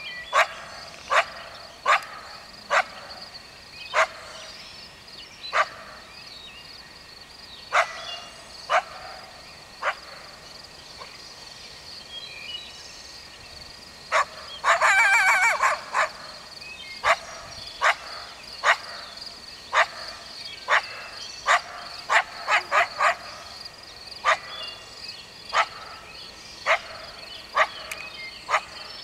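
Coyote barking: short, sharp single barks every one to two seconds, broken about halfway by a wavering, howling yip that lasts about a second and a half.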